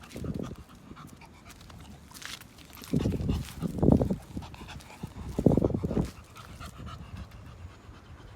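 English bulldog panting heavily, a few loud rasping breaths coming about three, four and five and a half seconds in. The dog is exhausted from walking in hot, humid weather.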